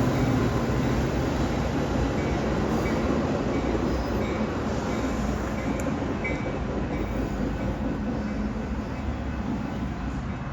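Metra commuter train rolling past on the rails with a steady rumble and rattle, slowly fading as it moves off. Now and then there are brief, faint wheel squeals.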